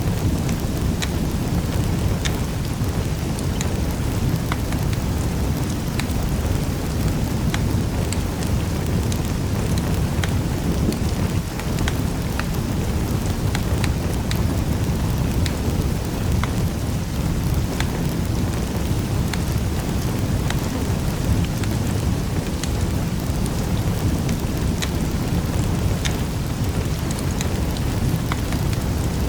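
Wood fire in a fireplace crackling: scattered sharp pops over a steady low rumble of the flames.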